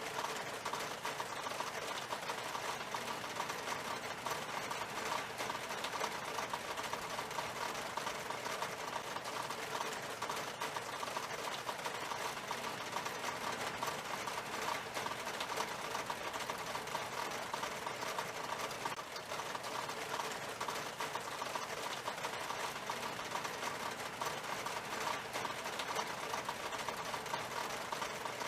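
Rain falling on window glass: a steady, dense patter of countless small drop ticks, even throughout.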